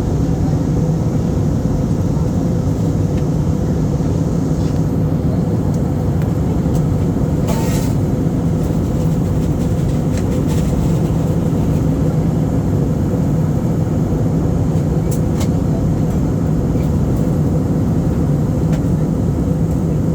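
Steady drone of an airliner's engines and airflow heard inside the cabin, a constant low hum with no change in pitch. A few small clicks, and a brief hiss about seven and a half seconds in.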